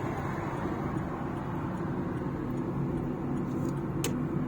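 Car interior noise while driving: a steady low drone of engine and tyres on the road, with one sharp click about four seconds in.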